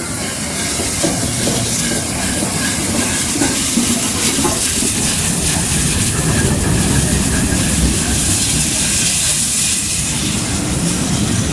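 LNER A4 Pacific steam locomotive drawing its train into a station: a steady rumble of wheels on the rails with a loud hiss of steam.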